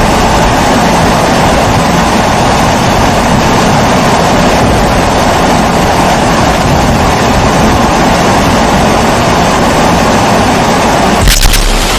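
Kerosene pressure stove (primus-type burner) burning with a loud, steady rushing noise. A couple of sharp clicks sound about eleven seconds in.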